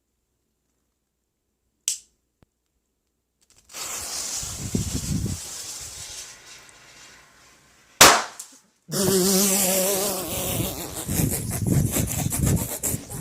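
A small firecracker going off with one sharp, very loud bang about eight seconds in, after a few seconds of hissing and rustling. The bang is followed by a loud hissing stretch with a wavering pitched sound.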